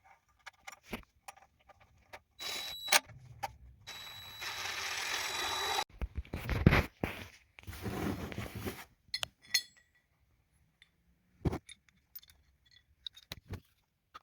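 Scattered clinks, knocks and scrapes of small hard objects being handled, one with a brief metallic ring about two and a half seconds in, and a hiss lasting about two seconds near the middle.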